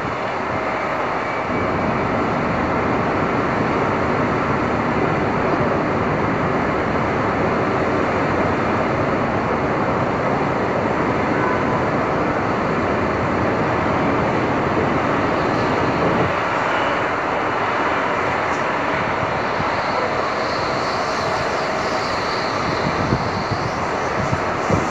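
Steady, dense roar of city street ambience: traffic and wind blending into one continuous wash, with the low rumble shifting slightly about a second and a half in and again around sixteen seconds in.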